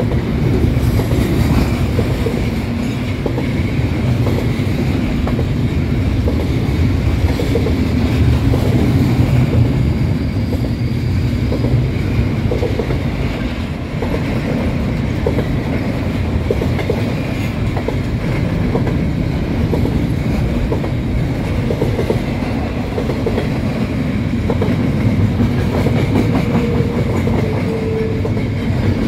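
Double-stack intermodal well cars of a container freight train rolling past at close range: a steady rumble of steel wheels on rail, with the wheels clicking over rail joints.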